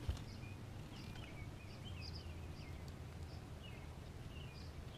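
Small birds chirping, short quick calls repeated every half second or so, over a faint low outdoor rumble. A single light knock sounds at the very start.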